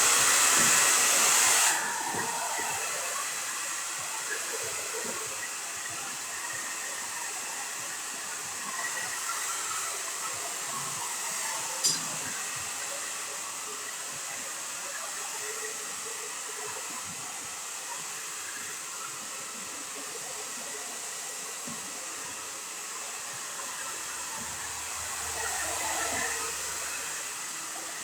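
Hair dryer blowing steadily, louder for the first couple of seconds and then settling to an even hiss. A single sharp click comes about twelve seconds in.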